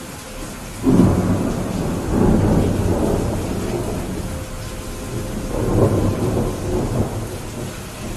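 Steady rain with thunder rumbling: a loud clap about a second in that rolls on, and another swell of rumbling around six seconds.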